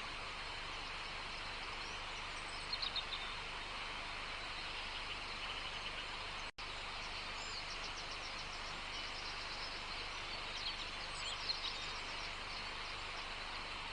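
Small birds chirping and trilling in a few short bursts over a steady, even rushing background, with a split-second cut to silence about halfway through.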